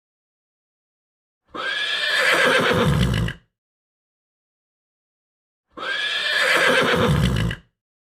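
Horse neighing: the same whinny of about two seconds played twice, with dead silence between.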